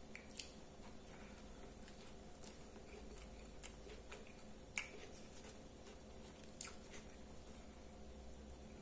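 Faint chewing of a mouthful of homemade hamburger in a soft bun, with a few soft, short mouth clicks, the clearest about halfway through.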